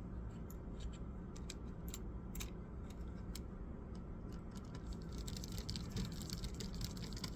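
Scattered light clicks and taps of laptop parts and tools being handled, coming thicker and faster about five seconds in, over a steady low hum.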